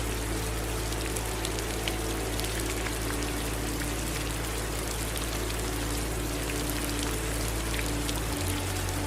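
Steady rain falling, with scattered individual drops ticking, mixed with running water. A steady low hum underneath changes slightly a little past eight seconds in.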